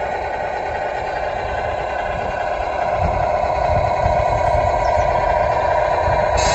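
Radio-controlled Scania model truck running, a steady mechanical whine over a low rumble that grows a little louder about three seconds in.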